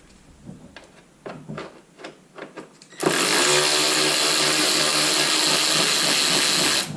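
Handheld power driver running steadily for about four seconds, undoing the 8 mm bolts that hold the bumper and arch liners. It starts about three seconds in and stops just before the end, after a few light clicks and taps.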